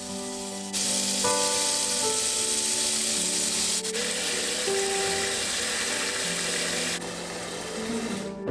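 Soft background music with a loud, steady hiss laid over it, starting about a second in and cutting off abruptly near the end.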